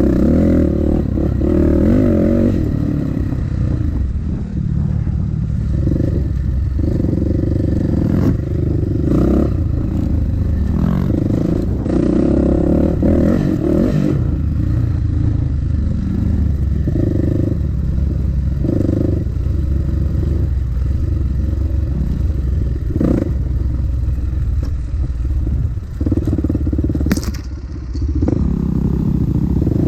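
Dirt bike engine being ridden over a run of small whoops, the revs surging and easing off again and again as the throttle is worked.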